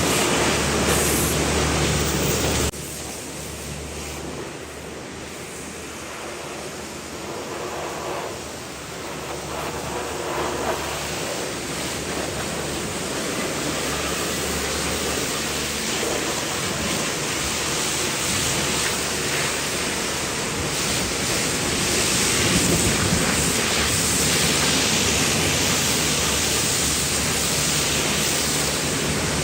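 Pressure washer spraying water, a steady loud hiss with a low motor hum beneath it. It drops sharply about three seconds in, then slowly builds back up.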